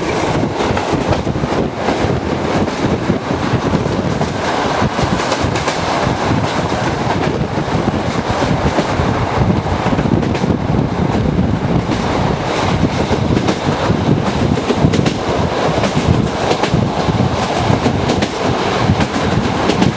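Moving passenger train heard from on board: steady rail noise of wheels running over the track, with a dense run of clicks and clatter.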